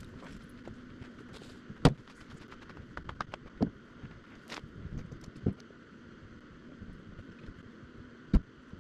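Scattered clicks and knocks from a truck camper being packed up for the road, with two sharp thuds, one about two seconds in and one near the end.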